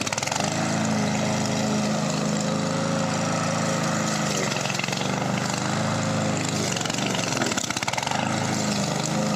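Small petrol grass-cutting machine engine running steadily while mowing, its pitch dipping briefly a few times as it takes load.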